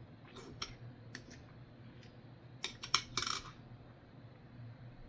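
Nickels clinking and clicking against each other and a hard surface as coins are handled, with a quick cluster of louder clinks about halfway through.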